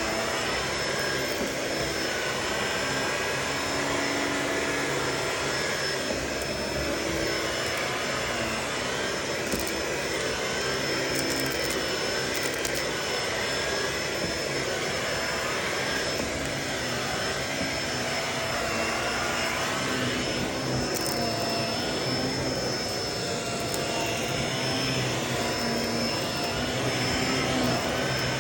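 Vacuum cleaner running steadily: an even, dense rush of air with a constant high whine over it.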